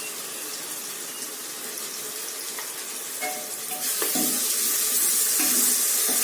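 Onions, green chillies and freshly added ginger-garlic paste sizzling in hot oil and ghee in a pressure cooker, a steady hiss that grows louder about four seconds in as the mixture is stirred.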